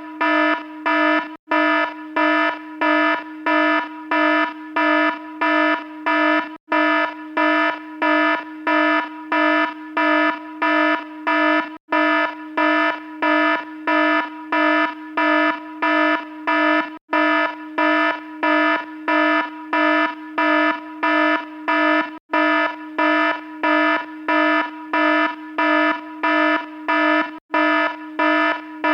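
Electronic alarm sounding a buzzy tone in even, repeating pulses, about three every two seconds, with a tiny break every five seconds or so.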